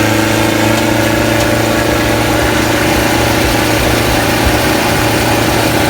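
Kubota L4708 tractor's diesel engine running at a steady, even speed with no revving.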